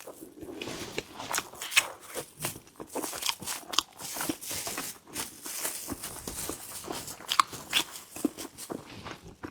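Close-up eating sounds: chewing and biting into a sticky glutinous-rice cake filled with black sesame and red bean, with many small irregular mouth clicks.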